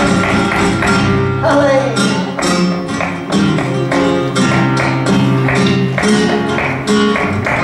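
Flamenco music: sustained guitar chords under sharp, rhythmic percussive strikes, with a short falling sung phrase about a second and a half in.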